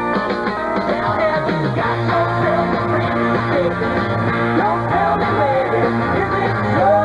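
Rock music with electric guitar, its notes bending and sliding over a steady bass line.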